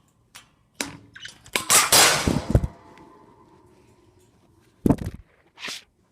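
A pet parrot lunging at the camera: a sudden loud scuffle and clatter about two seconds in, followed by two sharper knocks near the end.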